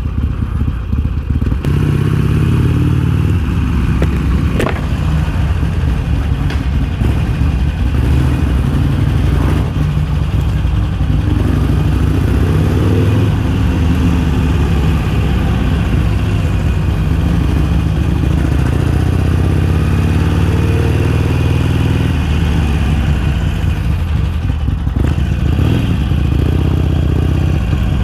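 Stock Harley-Davidson Iron 883's air-cooled 883 cc V-twin running as the bike is ridden, its engine note rising a few times as it accelerates and settling back in between.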